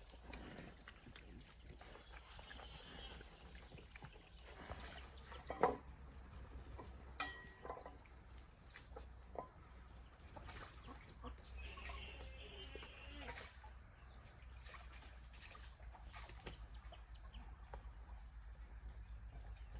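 Quiet rural outdoor ambience: a short high chirp repeats about once a second, with a few light knocks scattered through it.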